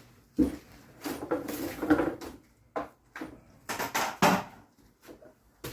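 Irregular knocks and clatter of wooden battens and tools being handled and set against a ceiling during ceiling batten installation. There are several separate strikes, the loudest about two seconds in.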